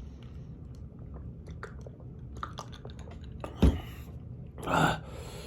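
Close-up chewing of spicy ramen noodles and sausage, with many small wet mouth clicks. There is a single sharp thump a little over halfway through, and a short breathy burst near the end.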